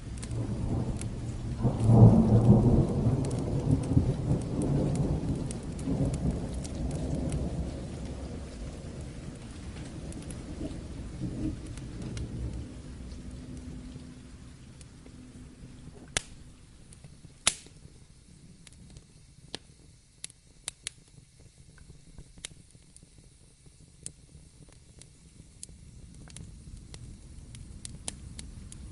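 A thunder roll swells about two seconds in and rumbles away over the next ten seconds or so, over steady rain. After it fades, only the rain hiss remains, with scattered sharp pops from a crackling fire.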